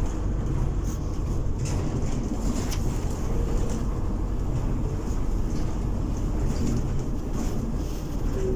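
Scania-engined Enviro400 double-decker bus under way, heard from inside: a steady low engine drone and road noise, with a few light rattles from the bodywork.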